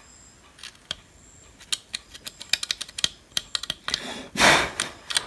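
A run of light clicks and taps as tools and a circuit board are handled on a workbench, then a short scrubbing sound about four seconds in, from the dirty power supply board being rubbed clean.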